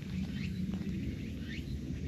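A small bird calling: a short, thin rising chirp repeated about once a second, three times, over a steady low background rumble.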